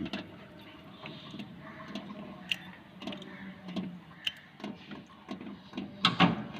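Scattered light clicks and taps from hand work, with a brief low voice near the end.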